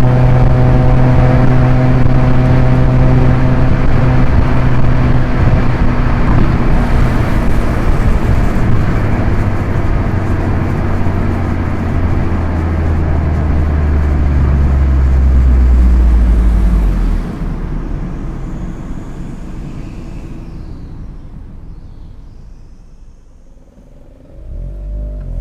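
Proton Inspira's 1.8-litre four-cylinder engine and road noise at a steady speed, the engine note falling as the car slows. It then goes much quieter for several seconds, and near the end the revs climb as the car accelerates again.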